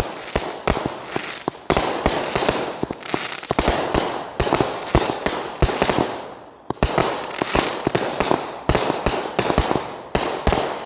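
Fireworks going off: a steady hiss of burning effects broken by many sharp pops and bangs, several a second.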